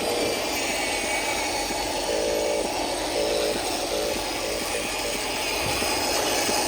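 Electric motor and plastic gearbox of a toy RC truck whining as it drives, the whine starting and stopping every second or so as the throttle goes on and off, over a steady rattling running noise.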